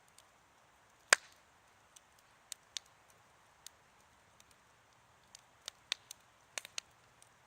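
Wood campfire crackling: scattered sharp pops and snaps over a faint hiss, with one loud pop about a second in.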